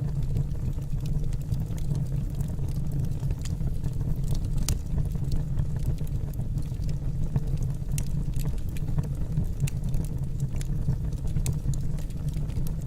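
Wood fire burning in a fireplace: a steady low rumble of flames, with sharp crackles and pops from the burning logs every second or two.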